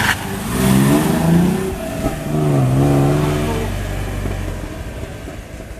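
Rally car engine accelerating hard through the gears: the pitch climbs, drops at a gear change about two seconds in, and climbs again, then the sound fades as the car pulls away.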